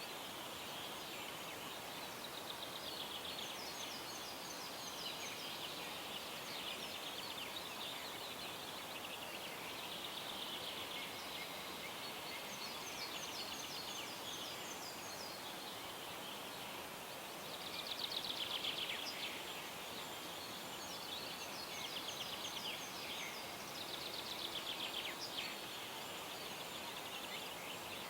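Several songbirds singing, with repeated rapid trills and quick ticking phrases overlapping over a faint steady hiss; one phrase about two-thirds through is louder than the rest.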